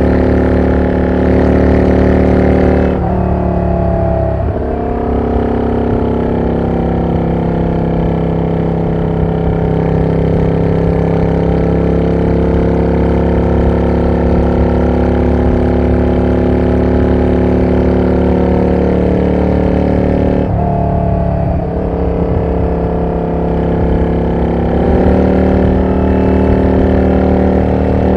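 Exhaust of a Yamaha Drag Star 400 Classic V-twin through a loud aftermarket muffler that is not road-legal, running at steady cruising speed. The engine note dips and recovers about three seconds in and again about twenty seconds in.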